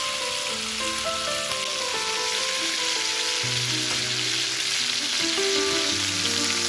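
A butterflied whole chicken frying in butter in a pan, sizzling steadily. Background music with held notes plays underneath.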